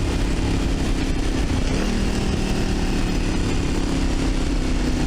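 1982 Yamaha Virago XV750's V-twin engine running steadily at low revs, its pitch stepping up slightly about two seconds in.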